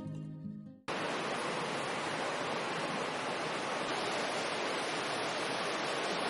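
A steady, even rushing noise that starts abruptly about a second in as music fades out.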